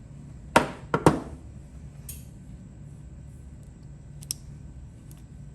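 Sharp metallic knocks and clinks from handling the steel ratchet parts and tools on a bench: three close together about half a second to a second in, and a lighter, higher clink about four seconds in.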